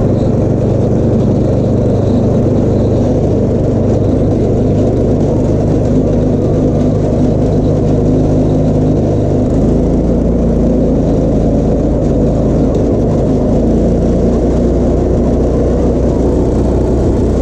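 Go-kart engine running steadily under way, its note changing about halfway through; the rider suspects the engine is overheating.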